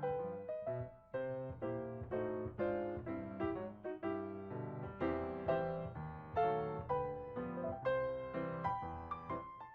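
Background music: a piano playing a steady run of notes, about two a second.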